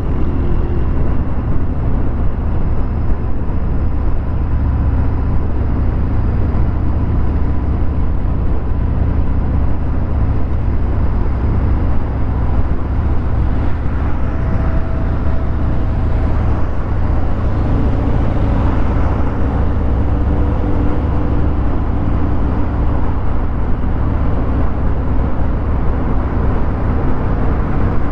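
Harley-Davidson Fat Bob 114's Milwaukee-Eight 114 V-twin with a Vance & Hines Hi-Output 2-into-1 exhaust running steadily under way, a constant low rumble.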